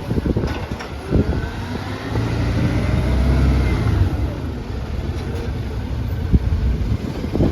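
Side-loader garbage truck's engine running, swelling in a deep rumble about two seconds in and easing off after about four seconds, with a few sharp knocks.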